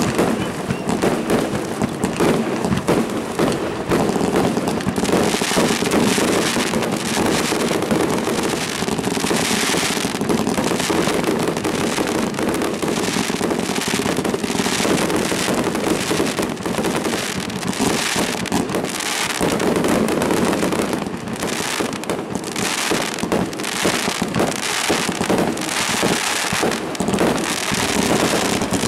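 Fireworks display: aerial shells bursting, many bangs and crackles coming in quick, overlapping succession throughout.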